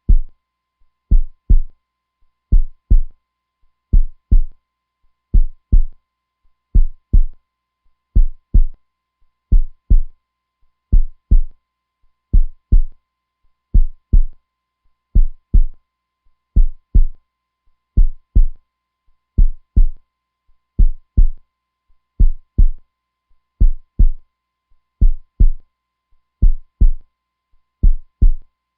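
Steady heartbeat: deep double thumps (lub-dub), one pair about every one and a half seconds, even and unchanging.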